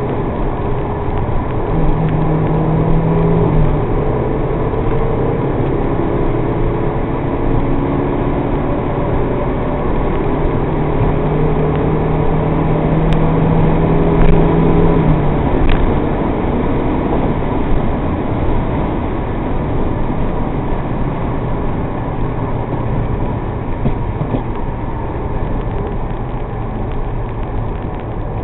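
MG TF's mid-mounted four-cylinder engine running at speed, heard inside the cabin, with heavy wind and road noise. The engine note holds steady for stretches of several seconds.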